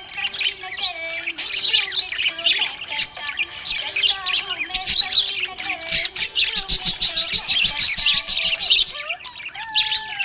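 Small pet parrots chirping and chattering, a dense, continuous stream of rapid high calls with warbling and occasional squawks.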